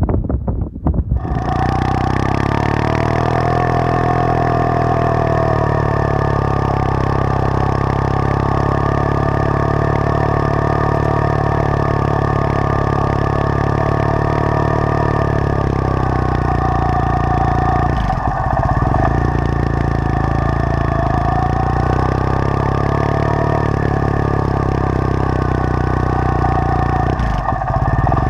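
Triumph Thruxton parallel-twin motorcycle engine running steadily while riding. It comes in after about a second and dips briefly twice, about two-thirds of the way through and near the end.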